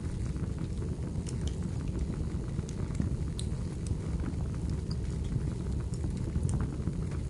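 Wood fire burning in a fireplace: a steady low rumble of flames with scattered sharp crackles and pops of burning firewood.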